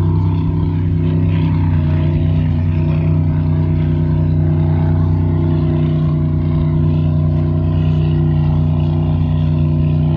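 An engine running at a steady speed, a low drone that holds one pitch without rising or falling.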